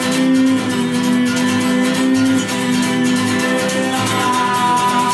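Acoustic guitar strumming a steady rhythm with held chords: an instrumental passage of a song, with no singing.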